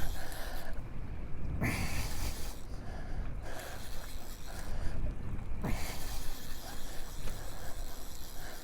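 Wind buffeting the microphone and water noise aboard a small fishing boat, with a couple of brief swishes about two and six seconds in.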